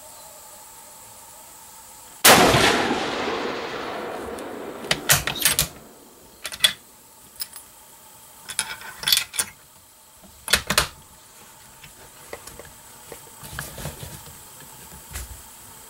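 A single rifle shot about two seconds in, its report echoing away over a couple of seconds, followed by a series of sharp metallic clicks and clacks from handling the rifle.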